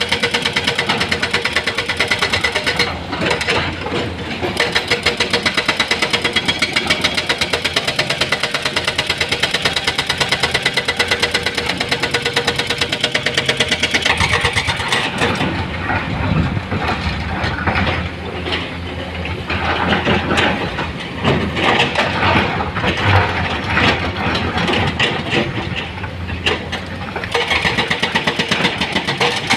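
Heavy diesel engine of construction machinery running with a fast, even pulse, turning rougher and more uneven about halfway through.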